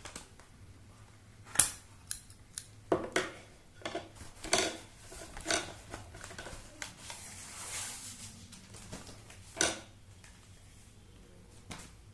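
Scissors snipping through packaging: a string of sharp, irregular snips with a longer rasping stretch near the middle and one last snip about ten seconds in.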